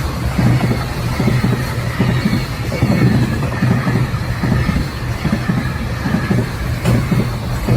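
Kintetsu electric train running past with a loud, steady low rumble, and one sharp click near the end.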